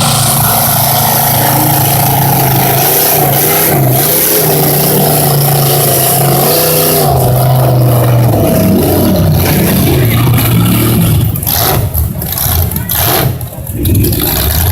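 Mega truck's engine running hard and revving, its pitch rising and falling repeatedly, with a few brief drops in loudness near the end.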